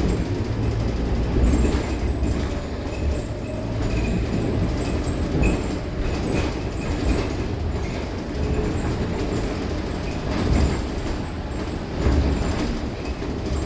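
Scania K230UB city bus's diesel engine and drivetrain running as the bus drives along, a continuous low rumble with scattered rattles and knocks.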